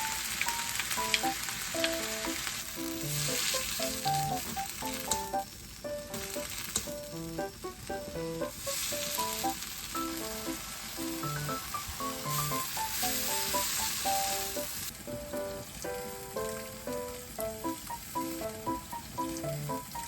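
Food sizzling in a hot frying pan, the hiss swelling and easing in stretches, under light background music of short plucked notes.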